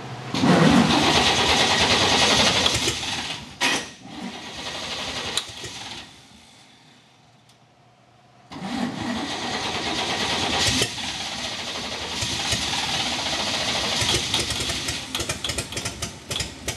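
Chevrolet 235 straight-six firing on sprayed ether: it bursts into running about half a second in, falters and dies out around six seconds, then fires again after about two seconds of quiet and runs on, turning choppy and uneven near the end. Running on ether only, it will not keep going on its own.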